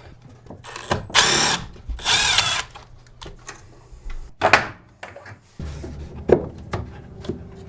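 Power drill running in two short bursts of about half a second each, driving screws into wood blocking. Several knocks follow.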